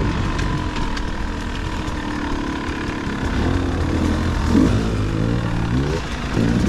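Dirt bike engine running at low revs, with a short rev about four and a half seconds in.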